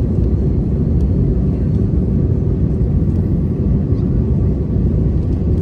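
Airbus A320 cabin noise in flight: a steady low rumble of engines and airflow heard from inside the cabin, with a faint steady hum above it.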